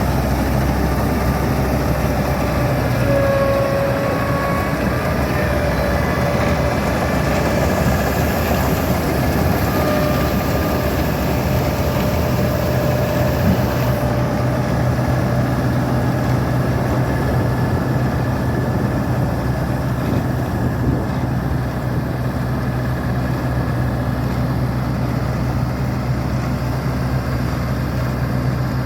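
Combine harvester engine running steadily with a low hum, a few brief higher whines coming and going over it.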